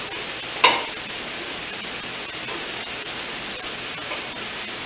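Food sizzling steadily in oil on a flat-top gas griddle: sausage, bell peppers and onions frying. One sharp short knock sounds about half a second in.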